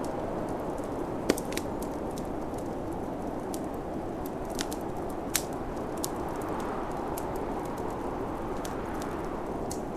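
Wood fire crackling, with scattered sharp pops, two of them louder about a second in and past halfway, over the steady rush of snowstorm wind.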